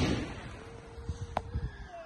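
Fireworks going off: the echoing rumble of a bang fades out, then a single sharp crack sounds about a second and a half in.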